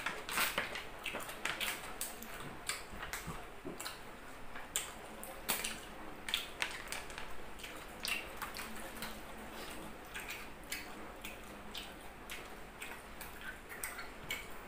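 Close-miked eating sounds of a person chewing grilled pork jowl and rice by hand: wet mouth clicks and smacks, several short clicks a second.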